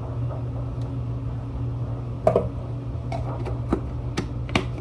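A spoon clicking and knocking against kitchen containers about six times, unevenly spaced, starting about two seconds in, over a steady low hum.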